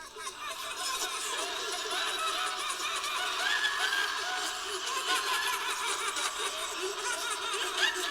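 A group of voices laughing and giggling together, many overlapping laughs rising in over the first second and then going on steadily.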